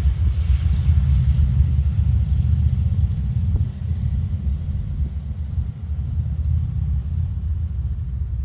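Steady low rumble of a motorcycle ride, engine and road noise, easing slightly a few seconds in.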